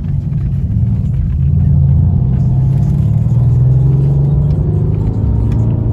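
Mercedes C-Class coupé's engine and exhaust heard from inside the cabin under way: a deep, steady drone that grows louder about a second and a half in as the car pulls harder, then holds.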